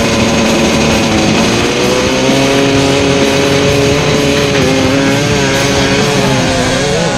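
Motocross dirt bike engines running and revving, their pitch sliding up and down, mixed with guitar-driven rock music.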